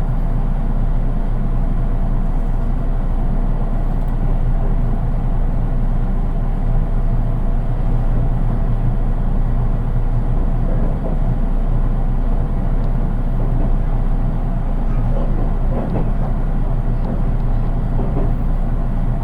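Interior running noise of a JR East 183 series electric train, heard in its unmotored KuHa driving car: a steady rumble of wheels on rail at speed, with little motor sound.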